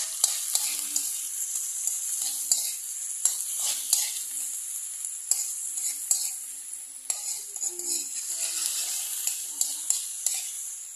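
Sliced red onions sizzling in oil in a wok, steadily, while a metal spoon stirs them, scraping and clinking against the pan at irregular moments.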